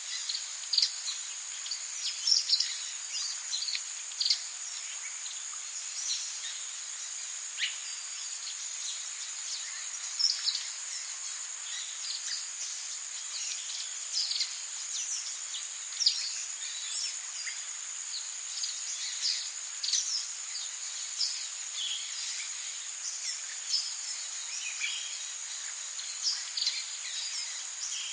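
Tropical rainforest ambience: a steady, high-pitched insect drone over an even hiss, with many short bird chirps and calls scattered throughout.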